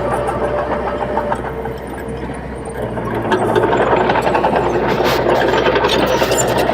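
Shantui bulldozer's diesel engine running under load, the rumble growing louder about three and a half seconds in, with some metallic clanking.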